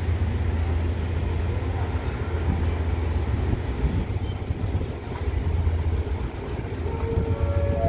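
Diesel passenger train moving slowly through a station, heard from an open carriage door: a steady low engine drone with rumbling carriage and wheel noise. Near the end a few steady notes begin, stepping up in pitch.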